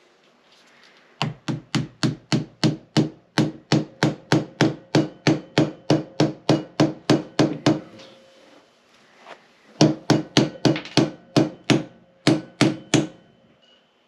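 Hammer blows struck in quick, even succession, about three a second: a run of about twenty, a short pause, then about ten more, used while taking apart a Honda CB450 engine.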